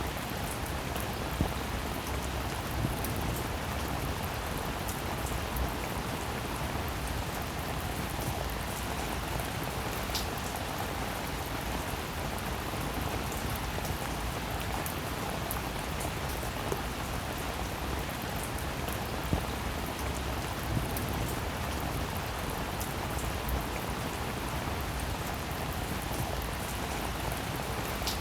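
Steady rain falling, an even hiss of drops with individual louder drops ticking out here and there.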